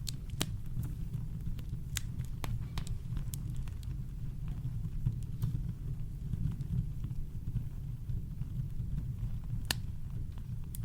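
Campfire crackling: scattered sharp pops and snaps over a steady deep rumble of brown noise, with louder pops about half a second in, two seconds in and near the end.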